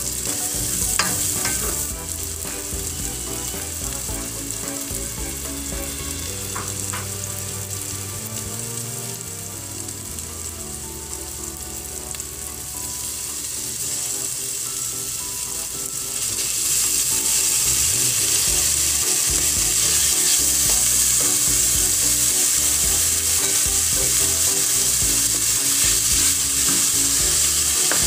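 Onion and garlic sautéing in melted butter in a frying pan, a steady sizzle with a couple of brief clicks of a utensil against the pan in the first seven seconds; the sizzle grows louder about sixteen seconds in.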